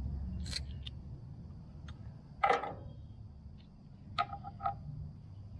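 A few short clicks and snaps of hand tools on the pull-start rope and its handle, the loudest about two and a half seconds in, as side cutters cut the knot off the starter rope.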